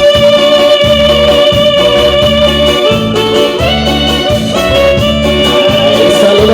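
Live band music, an instrumental passage with no singing: a pulsing bass line under a long held melody note.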